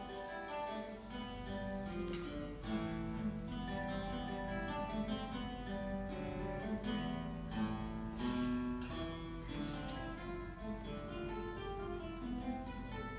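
Guitar playing a classical piece, plucked notes and strummed chords in a continuous flowing line.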